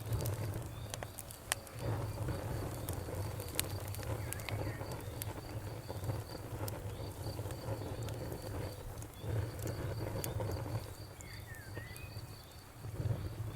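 Wood fire burning in a fireplace: irregular crackles and sharp pops over a steady low rumble of flame. One pop stands out, about a second and a half in.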